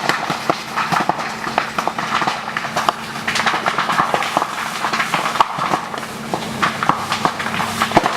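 Bamboo burning intensely, with loud, dense, irregular crackling and popping as the culms become superheated by the fire, over a steady rushing noise.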